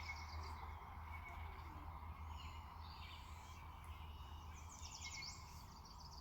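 Faint birdsong, with quick trills and chirps and a louder trill near the end, over a steady low hum.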